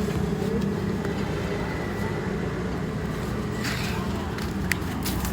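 A machine running with a steady low hum, with a few light clicks and a short scraping hiss about three and a half seconds in.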